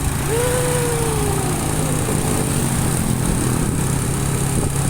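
Motorcycle engine running steadily while riding, with wind rushing over the microphone. A short tone rises and then slowly falls about a third of a second in.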